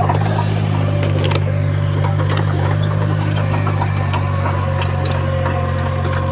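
Heavy diesel construction machinery running steadily, with scattered light metallic clicks and a steady higher tone joining about two-thirds of the way through.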